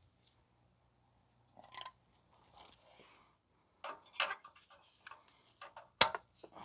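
Irregular clicks and clatter of hand tools and metal clamp hardware being handled, with one sharp, loud click about six seconds in.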